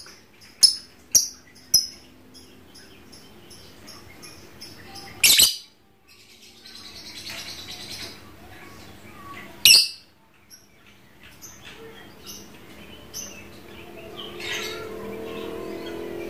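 Lovebird calling: a few short sharp chirps at first, then two loud shrill calls, one about five seconds in and one near ten seconds, with softer scattered chirps between and after.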